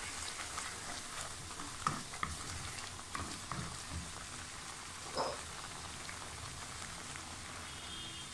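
Blended onion-tomato gravy frying in oil in a pan, a steady low sizzle. A wooden spoon stirring it knocks and scrapes a few times.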